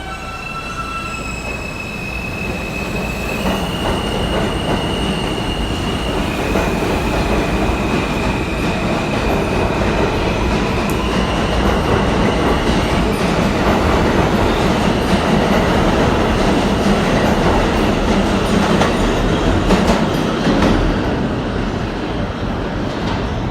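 New York City subway train running on steel rails, its wheels squealing in steady high tones that change pitch over the first half, while the rumble of the train builds and peaks near the end.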